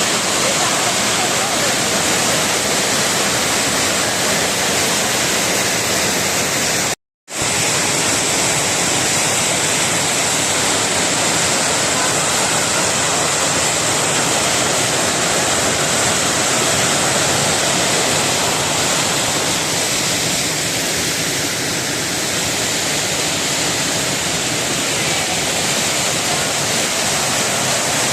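Waterfall: a heavy, steady rush of falling water, cutting out completely for a moment about seven seconds in.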